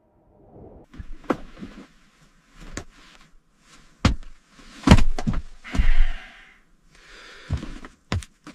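A series of separate knocks and thuds, irregularly spaced and a few of them loud, with short scraping rushes in between, around the middle and again later.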